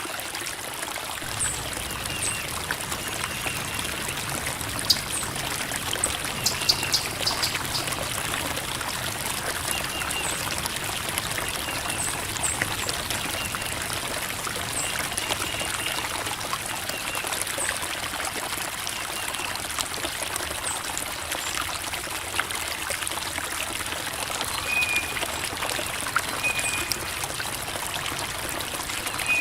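Creek water trickling and babbling over rocks in a steady flow, with short high notes here and there.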